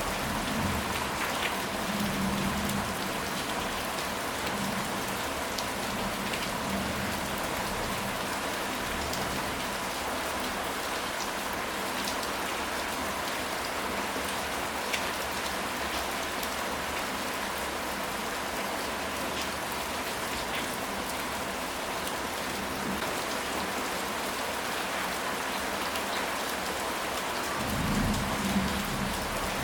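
Steady rain falling and pattering on surfaces, with a low rumble of thunder near the start and again near the end.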